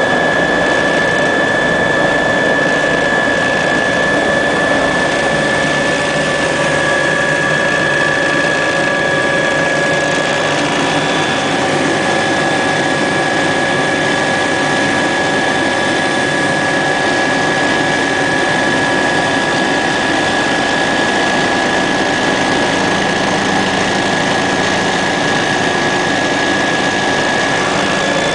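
Helicopter turbine engine running steadily, a constant loud noise with a high steady whine over it.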